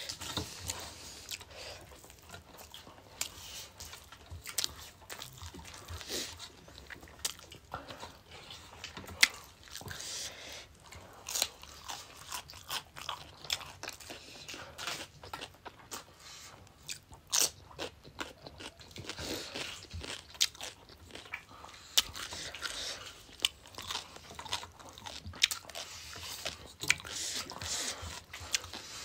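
Chewing and crunching from two people eating rice and chicken curry by hand and biting crisp papad, with many sharp, irregular crackles throughout.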